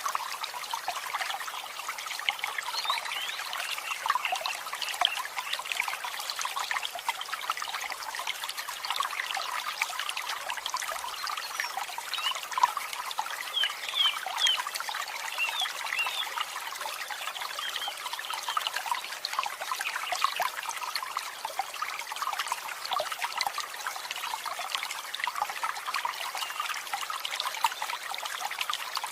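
Continuous chorus of many birds chirping and twittering at once, a dense, even chatter with a few clearer calls standing out about halfway through.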